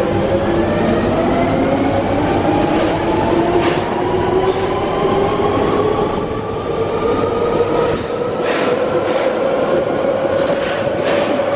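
London Underground 1992 Stock tube train accelerating. The whine of its traction equipment is made of several tones that rise slowly in pitch as it gathers speed. A few brief clacks from the wheels on the track come through.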